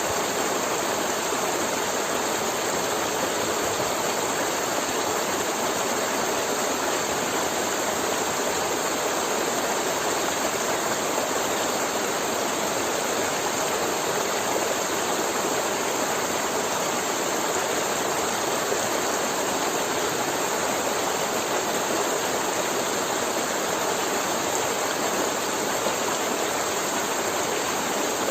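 River water flowing and gurgling over rocks in a steady rush, without pauses or changes.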